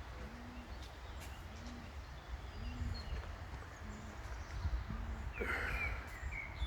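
Low cooing of a pigeon, one soft rising-and-falling coo about every second, with small birds chirping higher up and a brief busier burst of chirping near the end. Wind rumbles on the microphone underneath.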